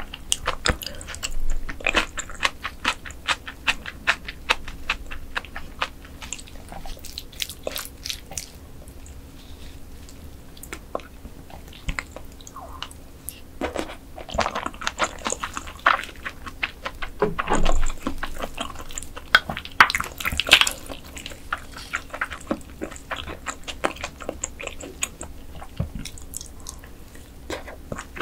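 A person chewing and biting mantis shrimp close to the microphone: irregular bursts of sharp, clicky crunches and mouth sounds, with quieter stretches between them.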